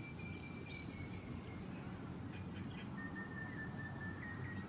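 A bird whistling two long, steady notes, the second lower than the first, over a steady low rumble.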